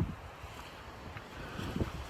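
Strong wind buffeting a phone's microphone: a gust dies away right at the start, leaving a quieter, uneven low rumble with small flutters.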